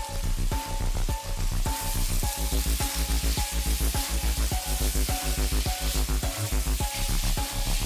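Sliced beef tripe and onion sizzling in hot oil in a nonstick wok and being stirred with a slotted spatula; the sizzle grows brighter about two seconds in. Background music with a steady beat plays under it.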